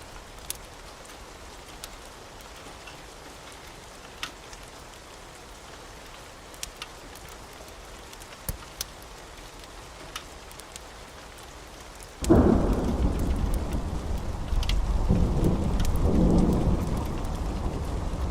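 Steady rain with scattered sharp ticks. About twelve seconds in, thunder breaks in suddenly and becomes a loud rolling rumble that swells twice and carries on.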